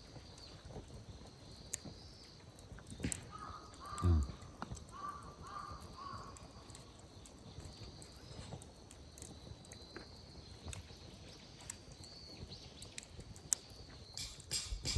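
A crow cawing several times in a row, over faint scattered crackling from the campfire. A short low thud about four seconds in.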